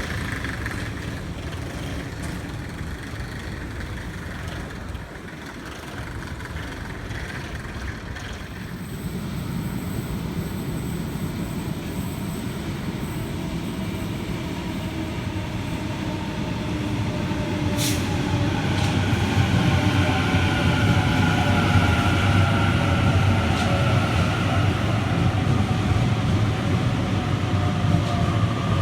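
An electric suburban train arriving at an underground platform: a low rumble builds up about halfway through, and a whine falls steadily in pitch as the train brakes. A single sharp click comes just before the whine.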